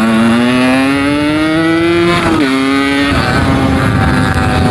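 Yamaha RX-King's 135cc two-stroke single-cylinder engine accelerating under load, its pitch rising for about two seconds, dropping at a gear change, then running steady. The engine is very rough and stuttering at 4,000 to 6,000 rpm, which the rider puts down to a carburettor setting that is not yet right.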